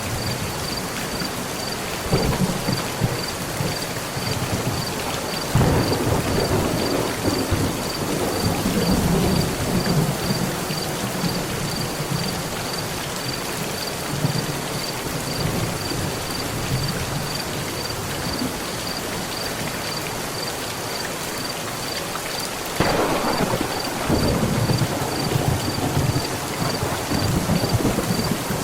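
Heavy rain pattering steadily on a metal roof, with rolls of thunder swelling up about two seconds in, again around six seconds, and a louder one near the end.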